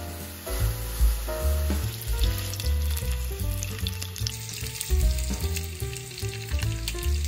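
Food sizzling and crackling in hot oil in a frying pan, the crackle strongest in the second half, over background music with a bass line.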